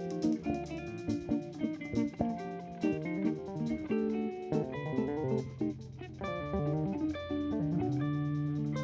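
Instrumental band music played live: guitar and bass with held melody notes over a steady beat.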